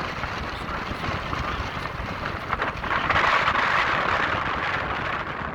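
Thunderstorm wind and rain making a steady rushing hiss, with wind buffeting the microphone. The rush swells louder about three seconds in.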